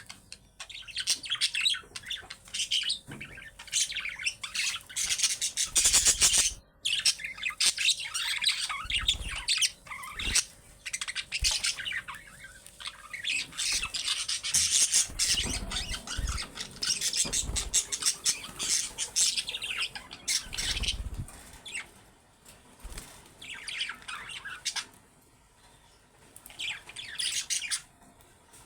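Budgerigars chattering, a dense run of rapid chirps, warbles and squawks, with a few dull thumps along the way. The calling thins out in the last few seconds.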